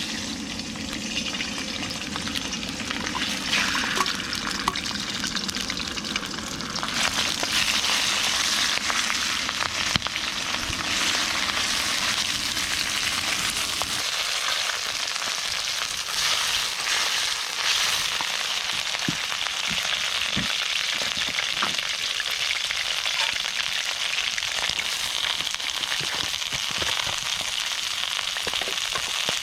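Food sizzling as it fries in a wok over a wood campfire. A low rumble underneath stops about halfway, after which scattered crackles sound through the frying.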